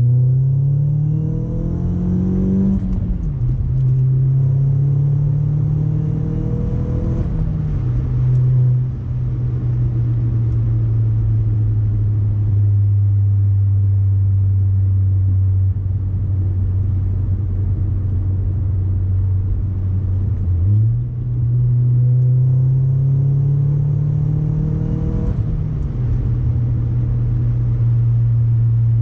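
Audi B6 A4 1.8T turbocharged four-cylinder running through a straight-through ECS catback exhaust with no resonator, accelerating hard. Its pitch climbs and drops at upshifts about 3 and 7.5 seconds in, holds steady at cruise, then climbs again from about 21 seconds with another shift near 25 seconds.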